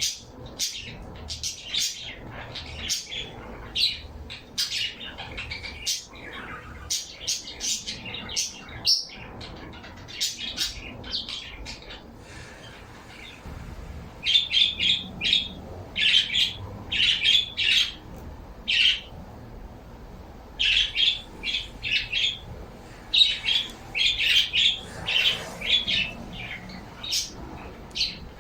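Pet birds calling in quick runs of short, sharp chirps and squawks, with a brief lull partway through.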